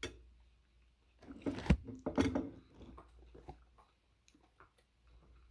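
Someone eating a soft dairy-free cheesecake: quiet chewing and mouth sounds, with a louder patch of handling noise about a second and a half in that includes one sharp knock.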